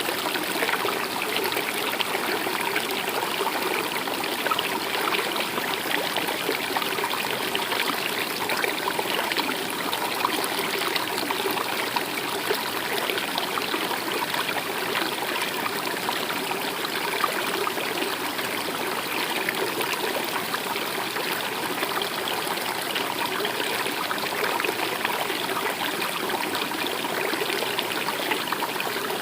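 A stream running steadily, water trickling and splashing at an even level.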